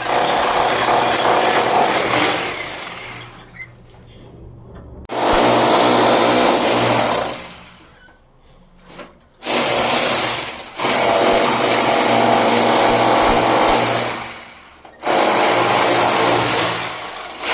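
An electric power tool's motor run in four bursts of about two to four seconds each. Each burst starts sharply, and after each one the motor winds down gradually.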